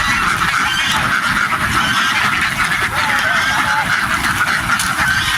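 A large flock of domestic ducks quacking all together in a dense, unbroken chorus of many overlapping calls, over a steady low rumble.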